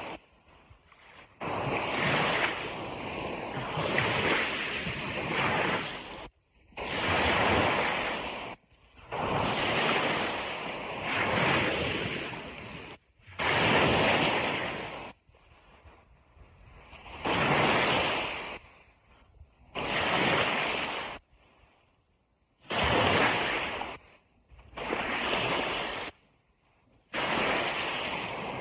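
Surf on a beach: a run of waves washing in one after another every two seconds or so, each surge of hissing water noise swelling and then dropping off sharply. There is some wind on the microphone.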